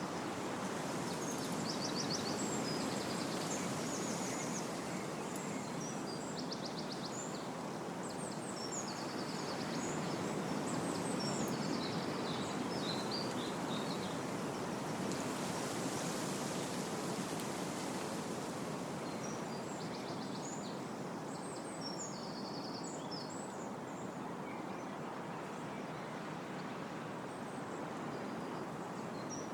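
Wind blowing through trees, a steady rushing that swells and eases slowly, with small birds singing short high chirping and trilling phrases over it, busiest in the first half and again about two-thirds of the way through.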